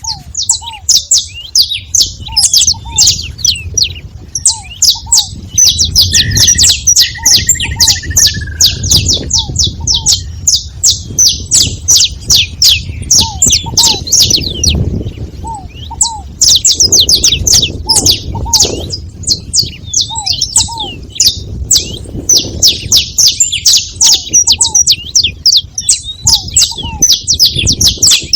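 A group of saffron finches chirping rapidly and almost without pause. Under the chirping, a lower hooked call repeats in short groups, and a short descending trill comes about six seconds in.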